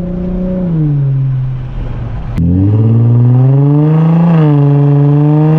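2004 Infiniti G35 coupe's 3.5-litre V6 with a muffler-deleted exhaust, heard from the driver's seat while driving. The engine note falls; about two and a half seconds in there is a click, then the engine gets louder as revs climb, dips briefly and settles into a steady droning tone.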